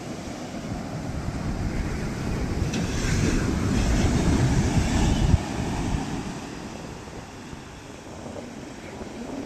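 Ocean waves crashing on the shore, with wind rumble on the microphone. A wave builds to its loudest about three to five seconds in, drops off sharply, then gives way to a quieter wash.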